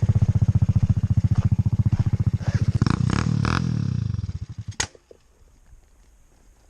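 Quad bike engine running at a steady idle, then switched off about five seconds in, its firing pulses slowing as it dies, with a click as it stops.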